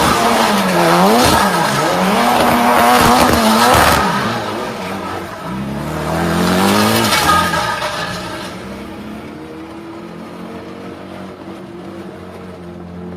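A drift car's engine revving up and down hard while its tyres squeal and skid for about four seconds. A second rev climbs around the middle, then the sound fades away as the car moves off.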